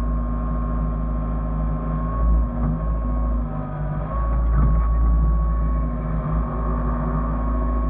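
Hyundai excavator's diesel engine running steadily under working load, with a high hydraulic whine whose pitch dips briefly midway and then returns.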